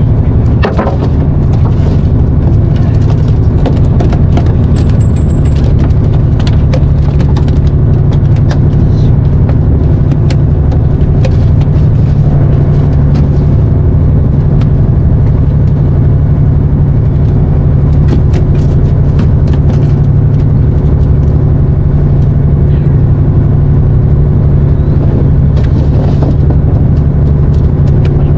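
A boat's engine running steadily, a loud low hum that does not change, with scattered light clicks and knocks over it.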